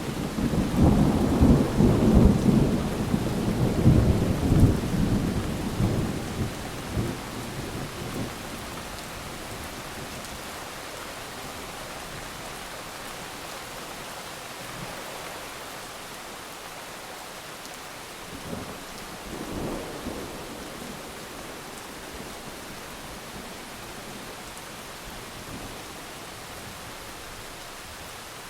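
A long roll of thunder over steady heavy rain for the first several seconds, then the rain alone with a shorter, fainter rumble of thunder about twenty seconds in.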